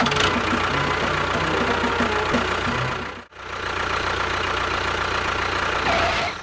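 An engine running steadily with a low knocking beat. It cuts out abruptly for a moment about three seconds in, then resumes the same way.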